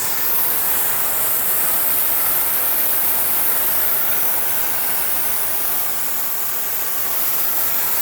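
Gas welding torch flame hissing steadily as it preheats a steel pipe for brass brazing.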